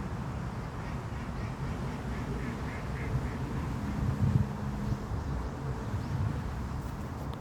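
A bird calling, a quick series of about six short notes, over a steady low rumble.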